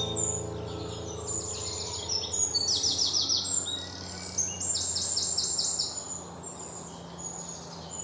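Songbirds singing: several quick runs of high, downward-sweeping chirps, with fainter single calls in between.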